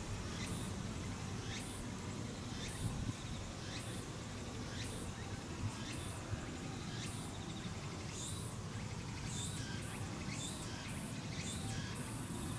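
Outdoor ambience: short, high chirps that drop sharply in pitch, repeating about once a second, typical of a small bird calling, over a steady low rumble.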